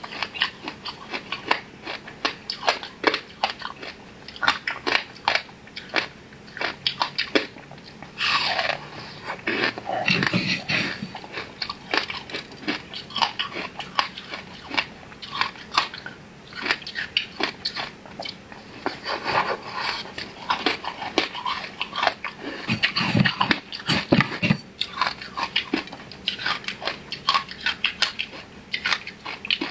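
Close-miked eating of a soft flower-shaped cake with a crumbly topping: steady chewing with many small wet mouth clicks, and a few heavier bites in between.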